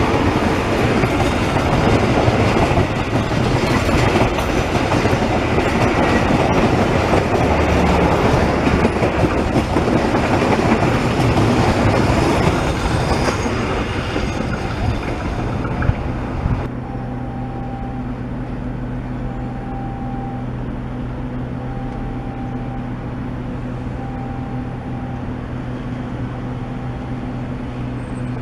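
Train passing on a curve, its wheels clattering over the rail joints with a loud rumble that eases after about 13 seconds. About two thirds of the way through the rumble stops abruptly, leaving a steady low hum.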